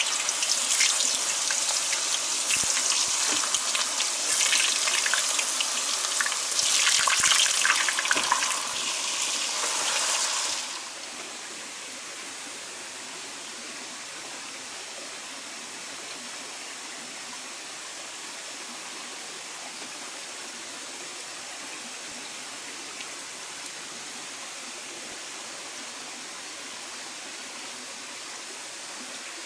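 Water pouring and splashing, busy with small crackles, for about ten seconds, then it stops suddenly, leaving a steady, quieter hiss.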